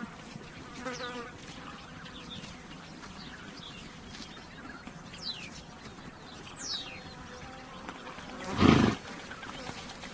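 A horse snorts once, a short, loud, noisy blast about eight and a half seconds in. Flies buzz faintly throughout, and a bird gives a couple of quick falling chirps midway.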